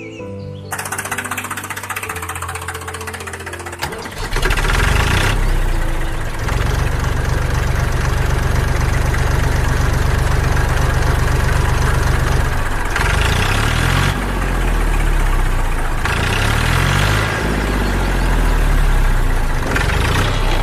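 Tractor engine running with a steady low knock. It gets much louder about four seconds in, and its pitch rises and falls twice later on.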